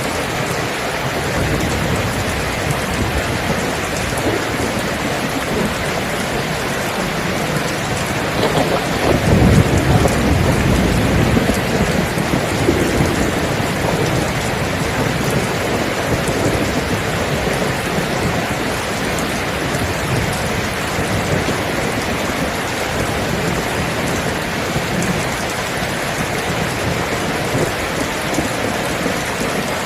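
Steady rain falling, with a low rumble of thunder swelling about nine seconds in and fading over a few seconds.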